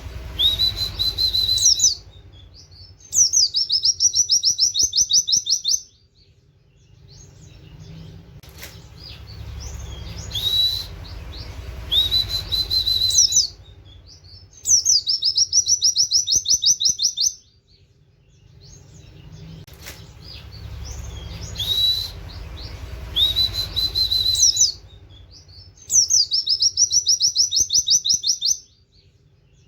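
White-eye (pleci) singing, with a canary-like 'wit wit' phrase repeated three times, about every eleven seconds. Each phrase is a high whistle that sweeps up and holds, then a fast, rattling trill of about fifteen notes a second lasting two to three seconds. A low rumble fills the gaps between phrases.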